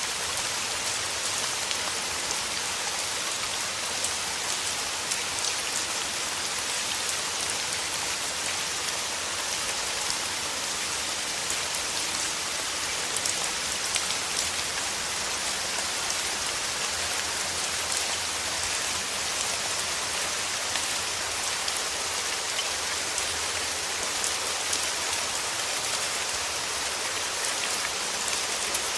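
Steady rain falling: an even, dense hiss of drops with faint ticks of single drops striking a surface.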